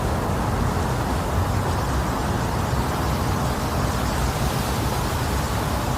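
Strong blizzard wind blowing steadily, buffeting the microphone with a low, uneven rumble under a hiss.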